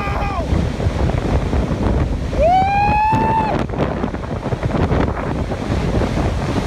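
Strong wind buffeting the microphone in a steady, heavy rush. About two and a half seconds in, a high-pitched tone rises quickly, holds for about a second and stops.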